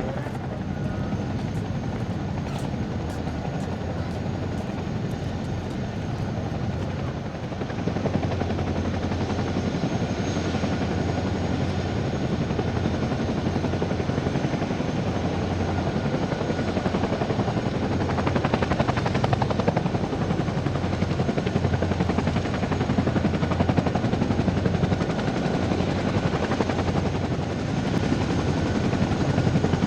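Helicopter running steadily, its rotor chop and engine noise growing louder about seven or eight seconds in.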